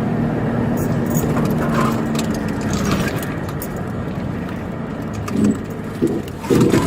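Patrol car's engine and road noise heard from inside the cabin, a steady hum with light rattles and clicks. A few short, louder bursts come near the end.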